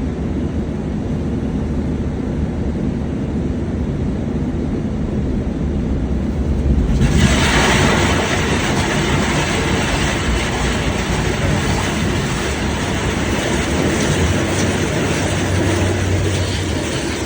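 Car wash machinery running with a steady low rumble; about seven seconds in, a loud even hiss sets in and keeps going.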